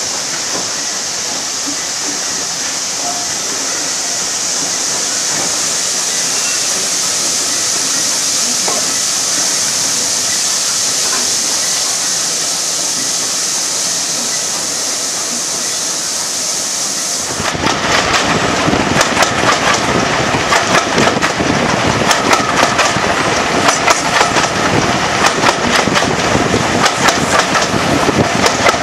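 A steady hiss, then about two-thirds of the way through an abrupt change to a train running on the rails: a rumble with rapid clattering and rattling.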